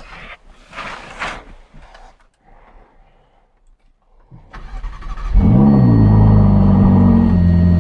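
Ferrari 488 GTB's twin-turbo V8 on its standard exhaust being started. The starter cranks briefly about four and a half seconds in, then the engine catches with a rev flare that rises and falls. It settles into a steady, loud idle.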